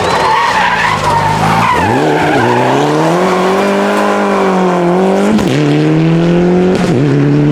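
Rally car engine pulling hard, its pitch climbing and dropping sharply with gear changes about two seconds in, about five and a half seconds in and near the end, with tyre squeal in the first two seconds.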